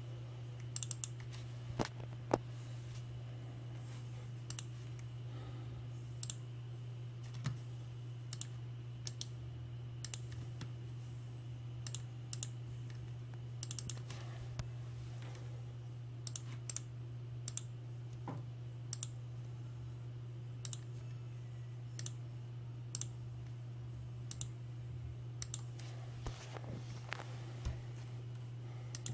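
Scattered, irregular clicks of a computer keyboard and mouse being operated, over a steady low hum.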